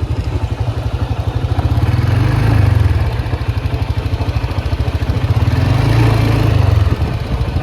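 ATV engine running while riding, getting louder twice as it is throttled up.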